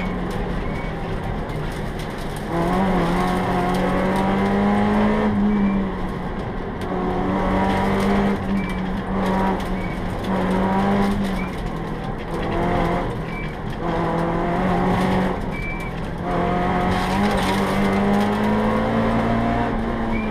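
Peugeot 309 GTI rally car's four-cylinder engine heard from inside the cabin, revving hard and climbing in pitch again and again as it is driven flat out, with short lifts off the throttle between the pulls.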